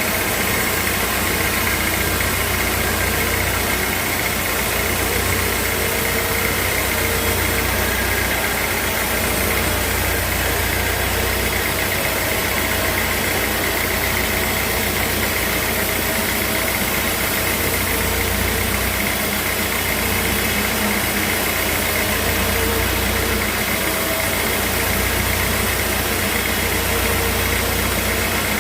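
Sawmill machinery running steadily: a continuous low engine-like rumble with a steady high tone over it.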